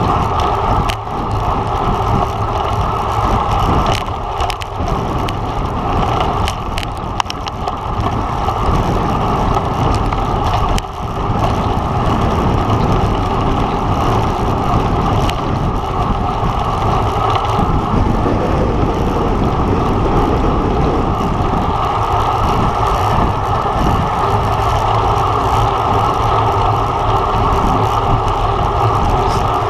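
Loud, steady wind rush and rumble over the microphone of a camera riding on a racing road bike at speed, with brief lulls around 1, 4 and 11 seconds in.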